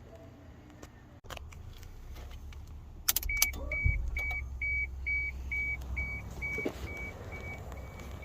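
A couple of sharp clicks, then a car's warning chime: short, evenly spaced beeps a little more than two a second that fade away over about five seconds. A low steady hum runs underneath.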